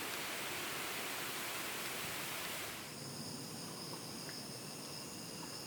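Mountain wind rushing through forest treetops, an even whooshing like surf. About three seconds in it gives way abruptly to steady high-pitched insect trilling.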